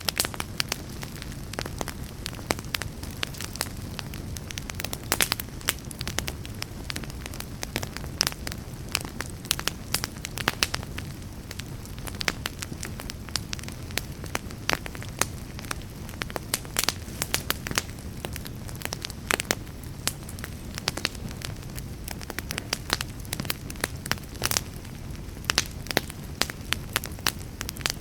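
Wood fire burning in a fireplace: irregular, sharp crackles and pops several times a second over a steady low rumble of the flames.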